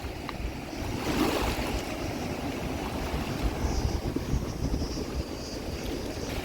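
Flowing stream water rushing steadily, with wind buffeting the microphone.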